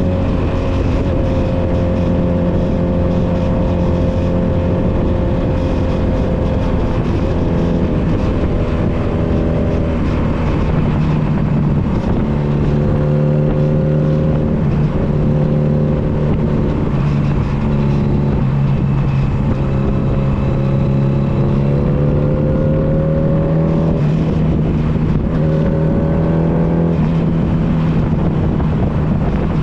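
Honda Nighthawk 250's air-cooled parallel-twin engine running under way. Its pitch holds steady for stretches and then steps or glides up and down several times, with steady road and wind noise underneath.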